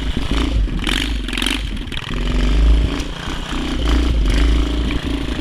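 Mini bike's small engine running under throttle, revving up and easing off, as the bike tries to push through deep snow.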